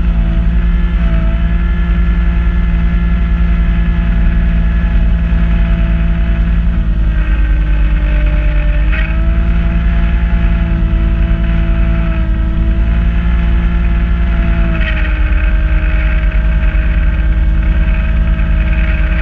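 Kubota B2650 compact tractor's three-cylinder diesel running steadily under load while driving a front-mounted snowblower. Its pitch sags slightly and recovers three times, about a third, halfway and three-quarters of the way through, as the load changes.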